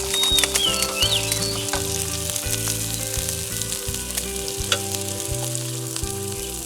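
Food sizzling and frying in a pan, with steady crackling throughout.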